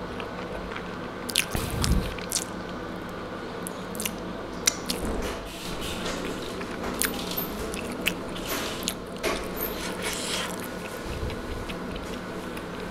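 Close-miked chewing of a chicken tortilla wrap: wet mouth clicks and small crunches, irregular throughout, over a faint steady hum.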